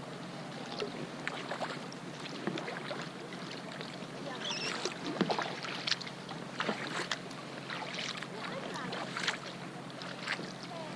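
Kayak paddling: paddle blades dipping into the water with irregular small splashes and drips, over a steady hiss.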